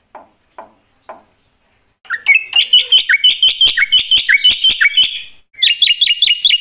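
Black-winged myna (jalak putih) singing. A few faint spaced notes open it, then after a short pause come loud, rapid runs of sharp repeated notes, about five a second, broken once by a brief gap.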